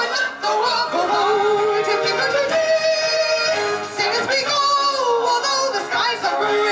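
A woman singing into a microphone with musical accompaniment, holding long notes with a wavering vibrato.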